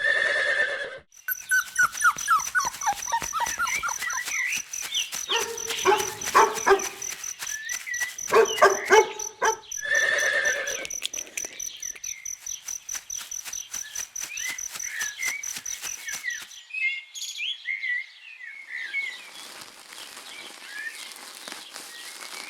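Animal calls: a dog barking in short bouts through the first half, then small bird chirps over a faint hiss in the last few seconds.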